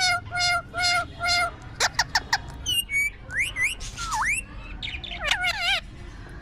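Parrot calling: four identical calls in a quick even row, then a run of varied whistles and squawks, with a long whistle that swoops down and back up about four seconds in and a fast wavering trill near the end.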